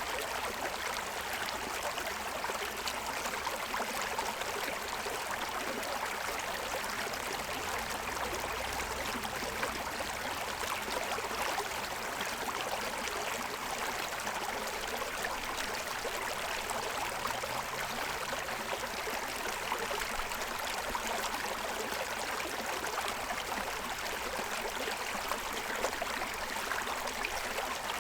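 Forest stream running steadily over the stones of its bed, a continuous rushing and gurgling of water with fine splashes.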